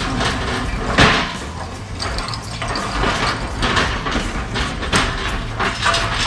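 Irregular mechanical clatter and knocks of work with metal tools and parts, with a sharp loud knock about a second in.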